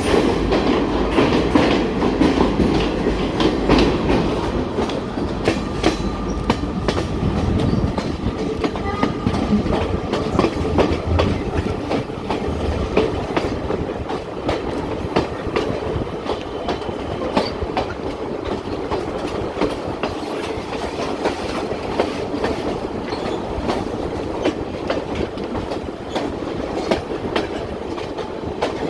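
Moving passenger train heard on board: a steady rumble with the clickety-clack of wheels over rail joints and frequent sharp clicks and knocks.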